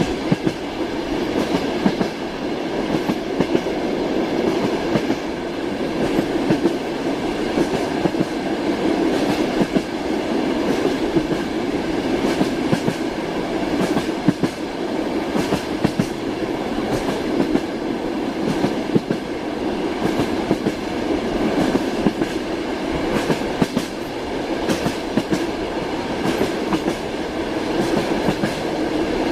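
Railway carriage wheels clattering over rail joints in a steady clickety-clack, over the continuous rumble of a moving train.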